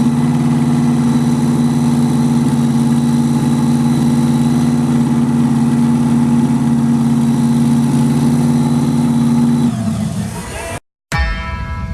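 Car engine idling steadily, settled down from a rev; about ten seconds in its note sinks and fades away, then the sound cuts off abruptly.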